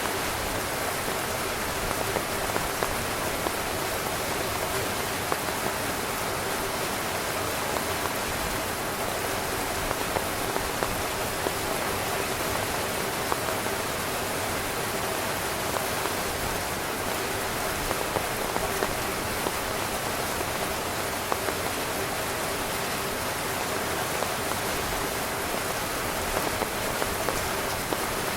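Steady rain falling on a tent: an even hiss with frequent sharp taps of single drops hitting the fabric.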